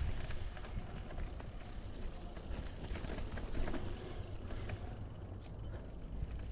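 Mountain bike riding a dirt forest singletrack: tyre noise and small rattles and clicks from the bike over rough ground, with heavy wind rumble on the microphone.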